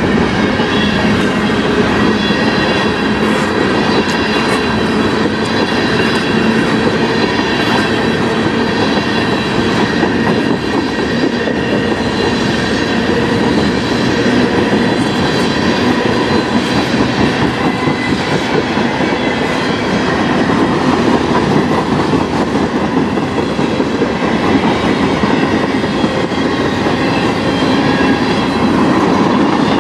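Freight cars of a mixed freight train (covered hoppers, tank cars, coil cars) rolling past close by: a loud, steady rumble and rattle of steel wheels on rail, with faint high ringing tones over it.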